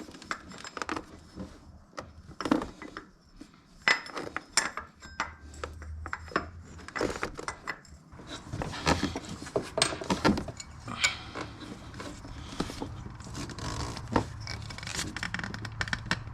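Hand tools working on metal engine parts: irregular clinks, knocks and scrapes as a fastener is tightened down.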